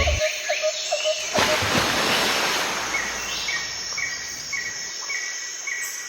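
Outdoor nature ambience: a steady hiss, with a short high chirp repeating about twice a second from midway on, and a few lower bird chirps.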